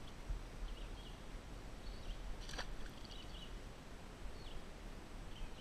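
Scattered short, high bird chirps over a low steady rumble, with one sharp tap about halfway through.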